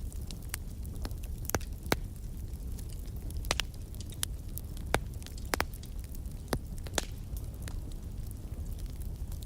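Wood fire crackling in a fireplace: irregular sharp pops and snaps over a steady low rumble of the flames, with the loudest pops about two and five seconds in.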